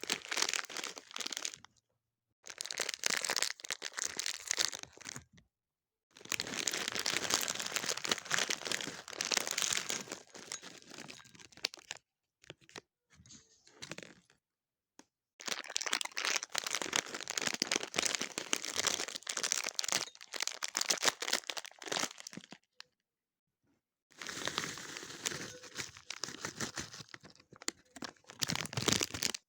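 Plastic snack packaging crinkling, crackling and tearing as it is handled and opened. It comes in several stretches of a few seconds each, with short silent pauses between them.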